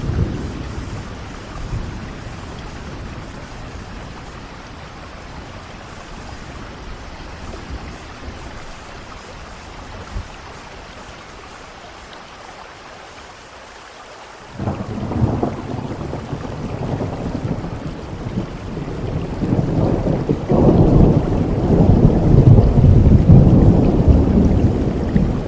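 Steady rain with thunder. Midway a low rumble of thunder breaks in suddenly, then a heavier roll of thunder builds and grows loudest over the last few seconds.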